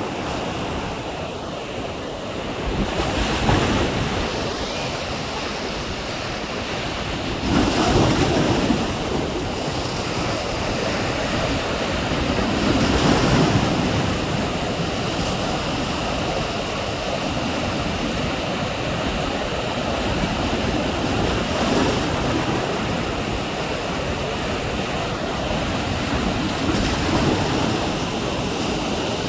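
Strong sea surf: a steady roar of waves, with a louder wave breaking every few seconds.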